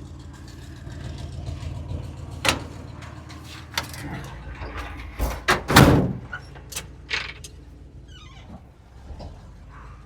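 Tow truck engine running steadily at low revs, with several sharp clunks and knocks in the middle, the loudest about six seconds in.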